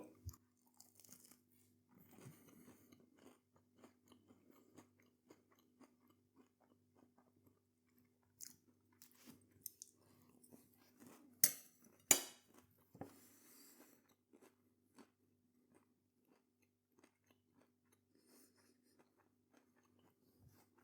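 A person chewing and crunching a breadcrumb-coated meat-free southern fried grill, mostly faint, with two sharper, louder crunches or clicks close together about halfway through.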